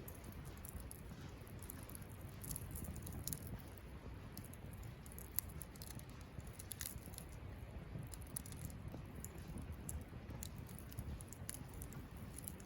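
Wood campfire burning, with frequent small sharp crackles and pops over a steady low rumble, and one louder pop about five seconds in.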